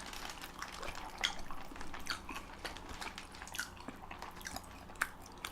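Close-miked wet chewing and mouth smacks of people eating chili dogs: irregular soft, moist clicks and smacks, with a couple of sharper ones about a second in and near the end.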